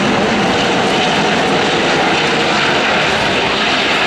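Jet engine noise of a four-engined Airbus A380 airliner landing, a loud, steady rushing roar.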